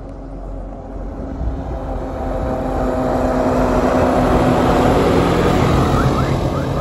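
Snowmobile engine approaching and passing close, growing louder to its peak about five seconds in, then easing slightly.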